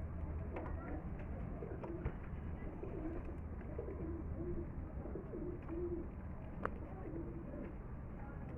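Domestic pigeons cooing in short, low, repeated notes, with a steady low hum underneath.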